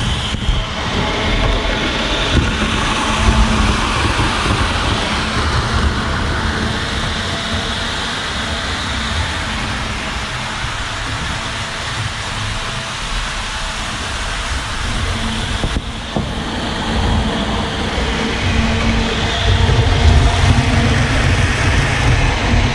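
Model steam train running on the layout's track: a continuous rumble of the locomotive and cars rolling along the rails, a little louder near the end.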